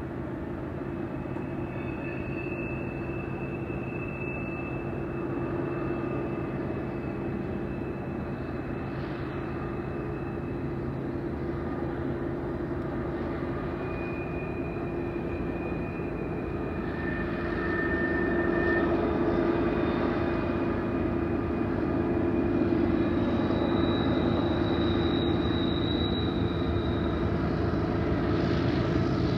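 Diesel locomotives of a long freight train working around a curve, a steady engine drone that grows louder as the train comes closer. A few thin, high squeals come and go, typical of wheel flanges on a curve.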